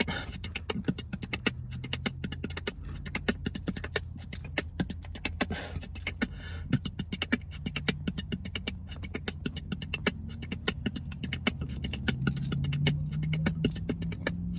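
A person beatboxing a fast technical combo in a rapid run of clicks, snares and kick-like hits, repeated over and over with small breaks. A steady low hum runs underneath.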